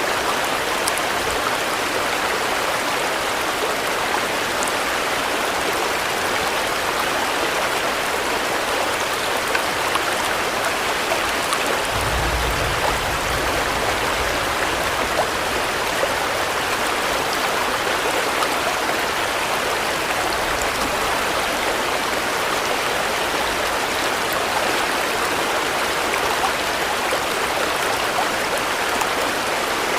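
Steady rain falling, an even hiss of many drops, with a brief low rumble about twelve seconds in and a fainter one near twenty seconds.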